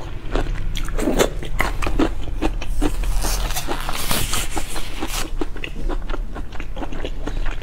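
Close-miked chewing and biting, with many short wet mouth clicks. Between about three and five seconds in, a clear plastic food glove rustles as it is pulled off.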